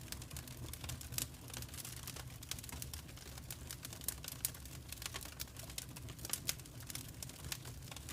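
Wood fire crackling: irregular sharp pops and snaps, several a second, with a few louder pops, over a low steady rumble of the burning fire.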